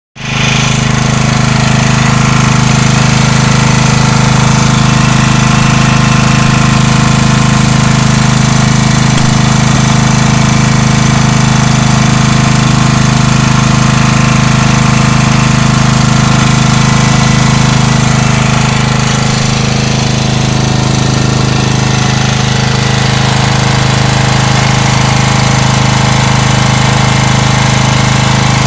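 Markon petrol generator driven by an 11 hp Briggs & Stratton engine, running loudly at a steady, constant speed.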